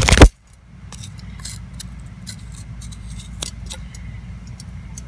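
A loud knock at the start, then sparse faint clicks and scrapes of a tool picking out the inside of a gourd piece, over a steady low hum.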